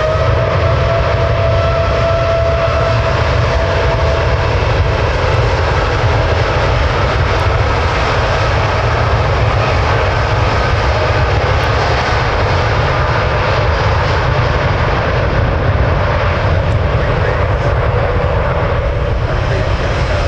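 Jet airliner's engines running loud close by: a heavy steady rumble under a whine that bends up in the first second, holds, and then slowly fades after a few seconds.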